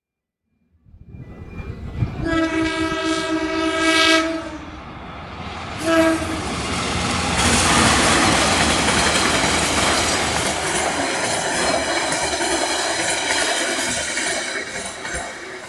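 A train approaching and passing close by. Its horn gives one long blast, then a short toot about two seconds later. Then comes a loud, steady rush of the passing train, with wheels clattering over the rail joints, easing off slightly near the end.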